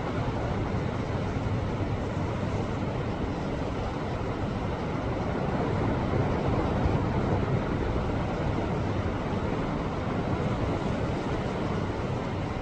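Sea waves surging and washing against shoreline rocks: a steady, deep rushing, swelling a little louder about six seconds in.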